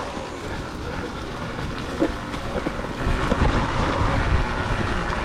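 Wind buffeting the microphone in a steady rumble, louder from about three seconds in.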